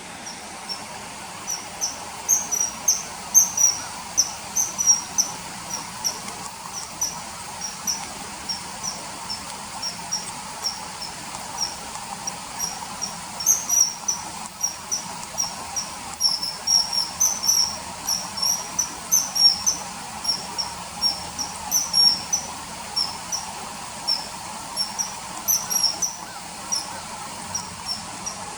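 Common kingfisher calling: repeated short, shrill high-pitched notes in irregular runs of several a second, over a faint steady hiss.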